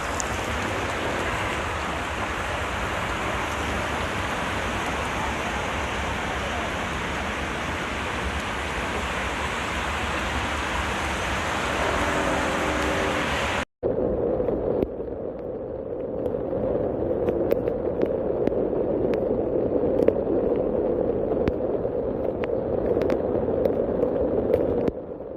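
Floodwater rushing and pouring in a steady torrent, in two recordings joined by an abrupt cut about halfway through. The second is duller, with scattered clicks.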